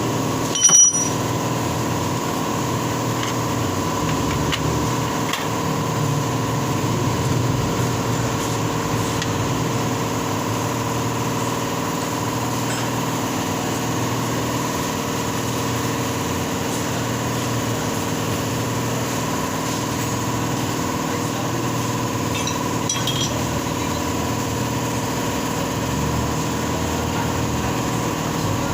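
Steady mechanical hum of workshop machinery with a single sharp, ringing metal clink about a second in, like a steel tool striking metal. A few fainter clinks come near the end.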